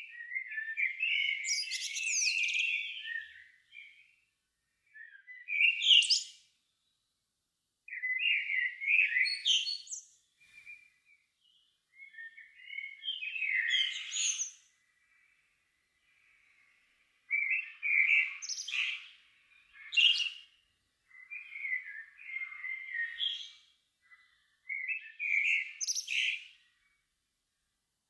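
A songbird singing at dusk in separate varied phrases of one to three seconds, each often ending in a high flourish, with short pauses between them, about eight phrases in all.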